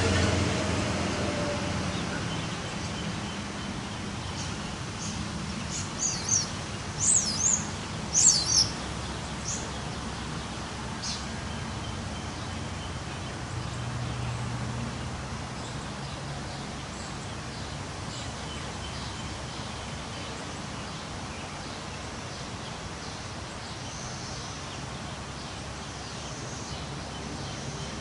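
Steady rushing of wind through trees under a low hum of distant traffic. A passing vehicle fades away over the first couple of seconds, and a bird gives a quick run of short high chirps about six to nine seconds in.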